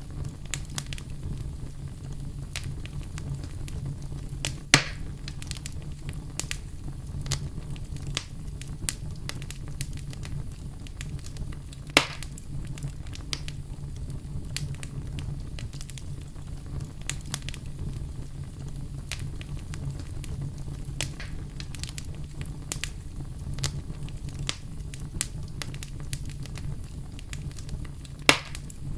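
Wood campfire crackling steadily over a low rumble, with many small snaps and three loud sharp pops: about five seconds in, about twelve seconds in, and near the end.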